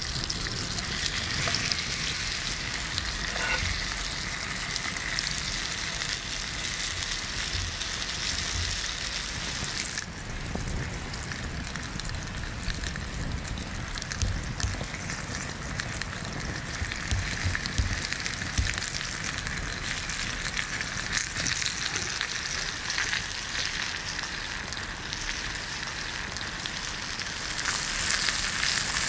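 Cured meat, pineapple and cheese sizzling steadily in a cast-iron pan over a campfire, with fat bubbling under the melting cheese. The sizzle shifts in tone about ten seconds in.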